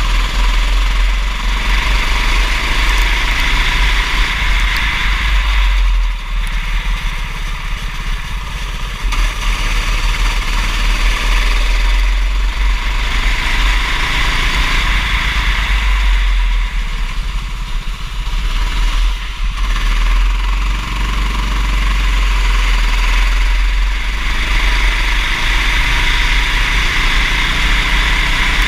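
Kart engine running at race pace, its note dropping and picking up again every few seconds as the throttle is eased and reopened, over a steady low rumble.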